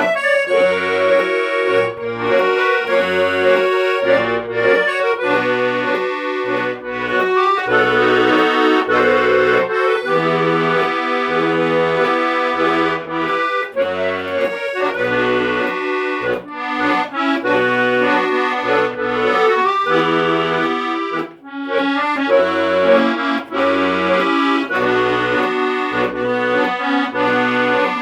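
Accordion playing a tune, the melody over a steady, rhythmic bass-and-chord accompaniment, with a brief break about three-quarters through.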